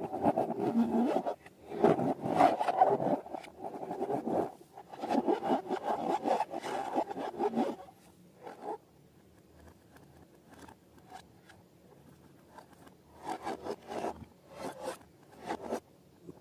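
Rubbing and scraping handling sounds from slime-making with balloons, in dense irregular crackly bursts for about the first eight seconds. It then drops low, with a few shorter bursts near the end.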